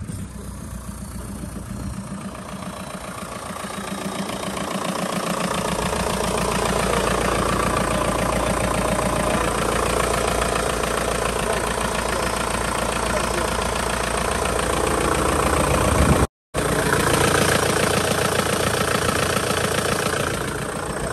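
Swapped car engine idling after being started, growing louder over the first several seconds and then running steadily. The sound drops out for a split second about two-thirds of the way through.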